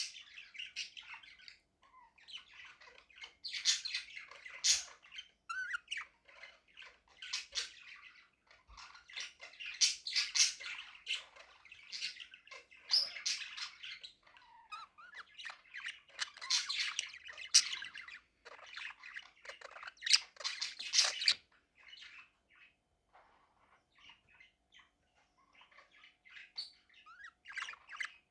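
Budgerigars chattering and chirping in bouts of short scratchy calls and squawks, with a quieter lull about two-thirds of the way through.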